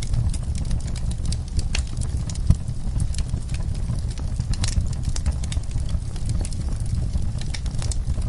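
Wood fire crackling in a fireplace: irregular sharp pops and snaps over a steady low rumble, with the loudest pop about two and a half seconds in.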